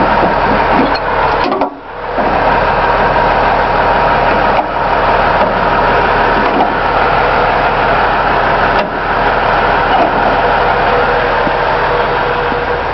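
Garbage truck running loudly and steadily, with a faint steady whine, and a brief drop in level about two seconds in.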